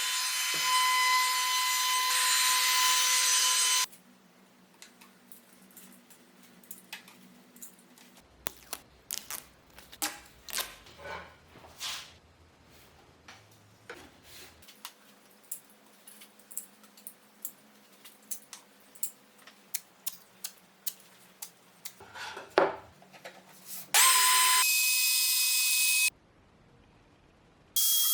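An electric woodworking power tool runs with a steady high whine, then cuts off suddenly about four seconds in. Next comes a long quieter stretch of light knocks and taps of wood being handled. The tool starts running again near the end, broken by a short silent gap.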